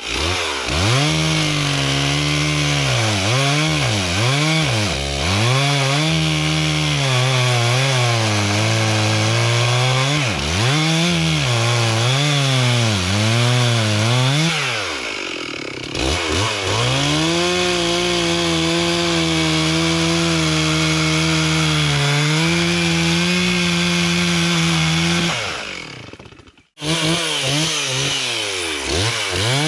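Stihl chainsaw revving up and down over and over, then held at steady full speed while cutting up a storm-felled tree. Near the end the sound cuts out for a moment and comes back at the same steady speed.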